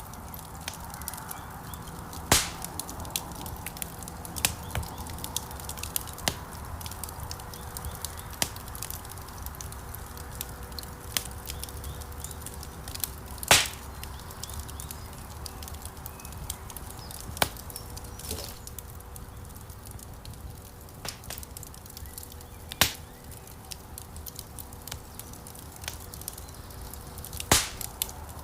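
Wood fire crackling in a fireplace: a steady low rumble of flames with irregular sharp snaps and pops, four of them louder than the rest.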